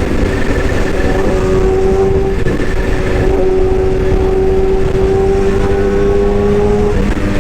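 An excavator's engine running steadily with a deep rumble and a steady whine, whose pitch creeps up slightly and drops back near the end.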